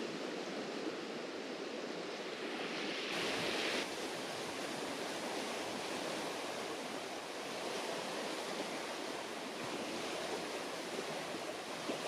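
Fast-flowing glacier-fed mountain creek rushing past, a steady wash of water noise. About three seconds in the sound changes abruptly, with a brief brighter hiss before the steady rush resumes.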